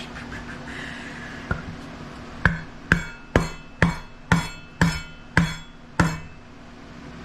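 Hammer striking metal during a small engine teardown: one light tap, then eight sharp ringing blows at about two a second.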